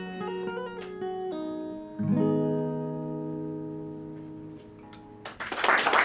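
Acoustic guitar playing the closing notes of a folk song, ending on a strummed chord about two seconds in that rings out and fades. Audience applause breaks in near the end.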